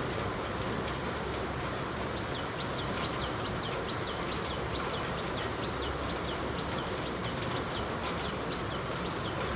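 A bird calling a rapid series of short, high, downward-slurred notes, about four a second, starting a couple of seconds in, over a steady background hiss.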